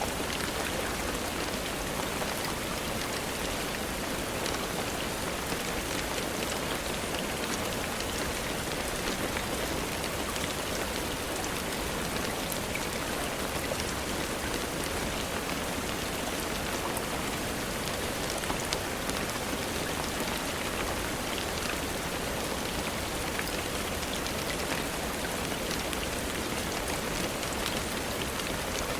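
Steady rainfall: an even hiss of rain with fine, scattered drop ticks that holds unchanged throughout.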